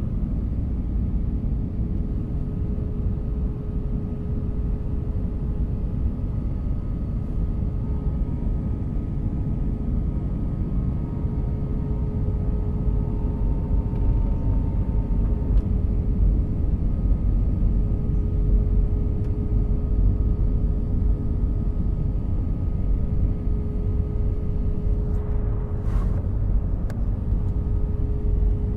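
Airliner cabin noise: the steady low rumble of the jet engines and airflow, with a steady hum over it. A short click near the end.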